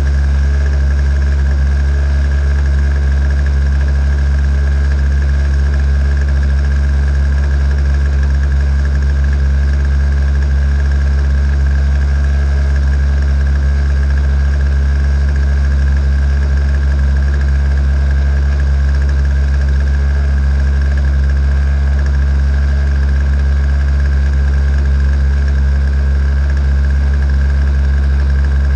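A small engine running steadily at one constant speed, with no revving up or down.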